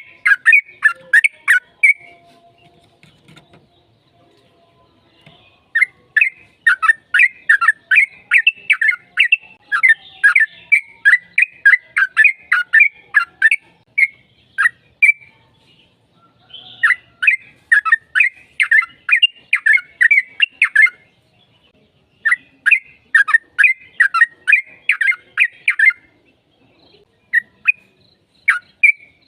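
Sooty-headed bulbul (trucukan) singing long runs of rapid, sharp chirping notes, about two or three a second, in phrases broken by short pauses and one longer pause a couple of seconds in.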